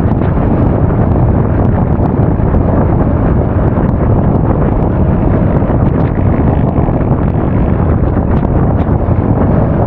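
Loud, steady wind noise buffeting the action camera's microphone while riding a Honda Forza 350 scooter at speed, heaviest in a low rumble.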